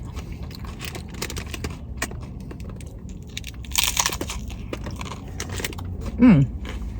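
Chewing on a crunchy hard-shell chicken taco: crisp, crackly crunches, with a louder crunch about four seconds in. Near the end comes a short falling 'mm' of appreciation.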